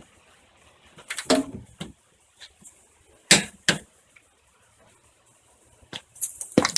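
A handful of short, sharp knocks and clatters: one group about a second in, the loudest about three seconds in, and a quick cluster near the end.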